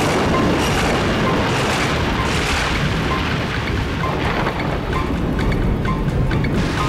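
Heavy rain with a deep, rolling rumble of thunder, loud and steady.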